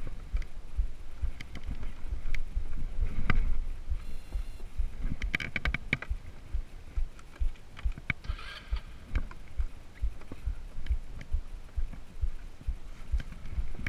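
Motor scooter jolting over a rough, stony dirt road: a run of irregular low thumps with scattered clicks and rattles, and some wind on the microphone.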